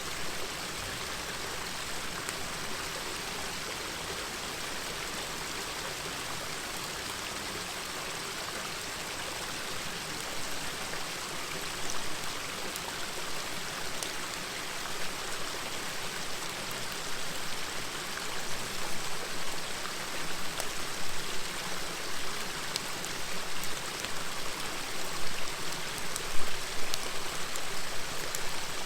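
A river murmuring steadily, with the crackle and sharp pops of a campfire over it; the pops come more often and louder in the second half.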